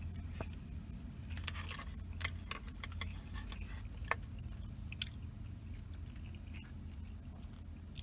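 Close-up mouth sounds of someone chewing a mouthful of food: scattered wet clicks and smacks, bunched in the first half and thinning out later. A steady low hum runs underneath.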